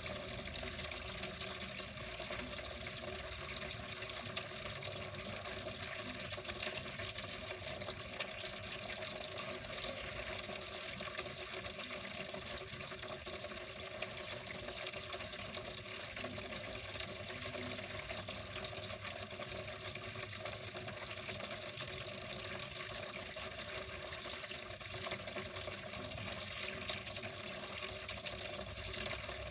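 Water flowing steadily in an even, unbroken rush.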